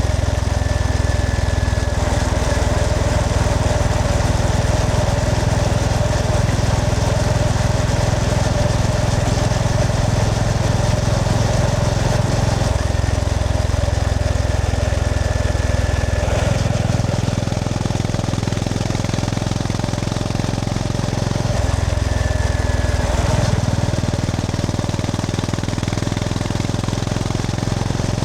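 Honda GB350S's air-cooled single-cylinder engine running under way, its low note changing abruptly several times as the rider changes gear or throttle, over a steady rush of wind.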